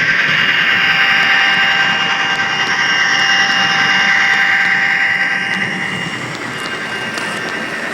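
HO scale model train running along the layout, a steady whine and rumble that eases off a little after about five and a half seconds.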